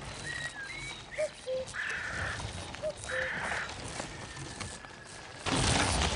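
Outdoor nature ambience with animal calls. A short two-note chirp repeats about every second and a half, and high bird whistles are heard early on. Two harsh, rasping calls come near the middle, and a louder rush of noise sets in near the end.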